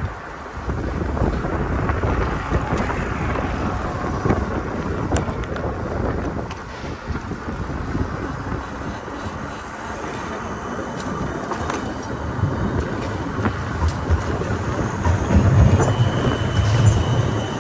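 Outdoor traffic noise with wind on the microphone, with a low rumble that swells near the end.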